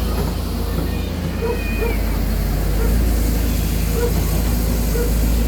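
Backhoe excavator's diesel engine running steadily at close range, a continuous low rumble.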